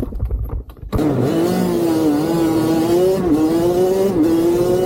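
Motorcycle engine running steadily under way, its pitch dipping briefly about three times. The engine note cuts in about a second in, after a rumble of wind noise.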